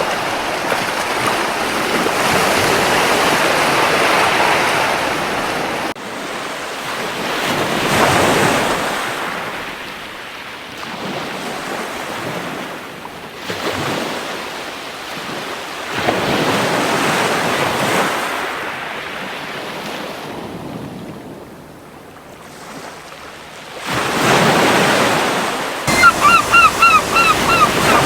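Surf breaking and washing up a beach, each wave swelling and fading over a few seconds. Near the end, a gull gives a quick series of about eight short, sharp calls.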